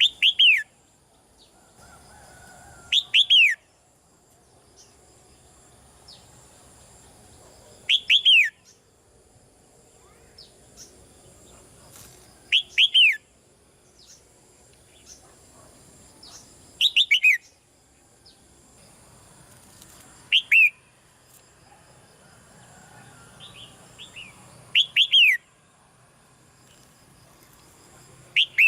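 Red-whiskered bulbul calling: a short, loud call of quickly falling notes, repeated about every four seconds, about eight times, with faint chirps in between.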